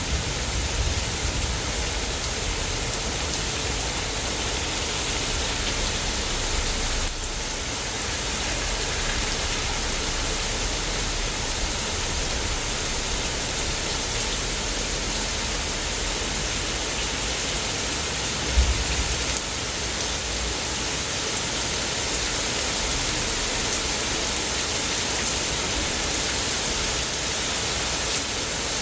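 Steady heavy rain falling and splashing on surfaces during a thunderstorm. A brief low thump stands out about two-thirds of the way through.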